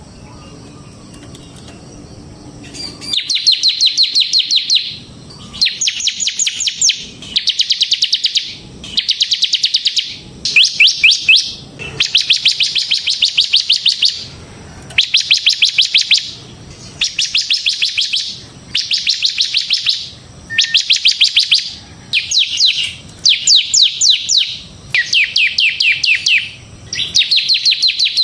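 Bar-winged prinia (ciblek) singing in a rapid 'ngebren' style: after about three quiet seconds, a string of short bursts of very fast high trilled notes, each one to two seconds long, with brief pauses between.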